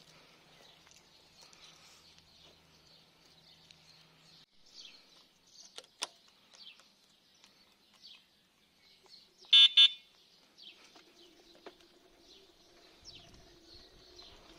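Birds chirping, with two short electronic beeps just under ten seconds in, the loudest sound. A faint steady hum starts about eleven seconds in, and a low rumble comes in near the end.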